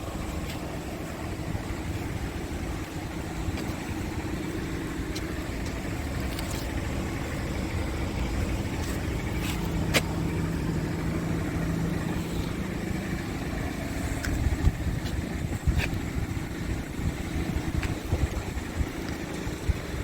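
Scania R580's V8 diesel engine running steadily, with a few sharp clicks over the engine hum.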